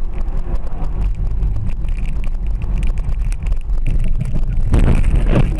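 Car on the move: a steady low rumble of road and engine noise with wind buffeting the microphone, swelling louder for about a second near the end.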